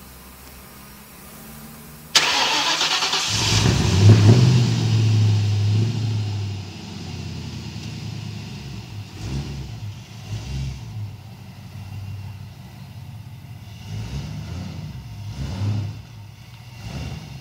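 Ford Mustang GT's 302 V8 cranked by its starter about two seconds in, catching with a loud flare of revs that settles to idle within a few seconds. Several short throttle blips follow during the idle.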